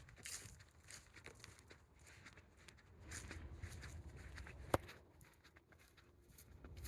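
Footsteps on a woodland trail: soft, irregular crunches underfoot. A low rumble swells for a second or two in the middle, and a single sharp click just after it is the loudest sound.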